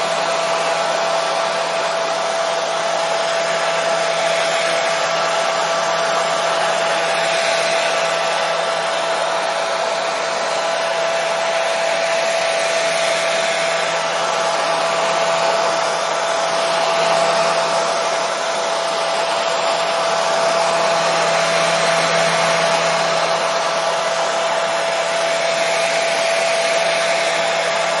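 Hair dryer running steadily: a constant blowing rush with a steady whine from its motor.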